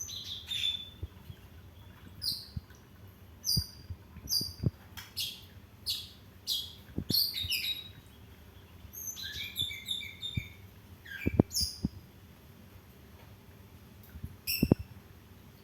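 A songbird chirping: short, high-pitched chirps in quick clusters with brief pauses between them, along with a few faint low knocks.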